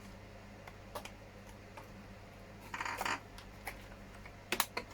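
Light plastic clicks and knocks as a hard-plastic RC truck body shell is handled and pushed onto its chassis mounts. There is a short cluster of clicks about three seconds in and a sharp double click near the end, over a faint steady hum.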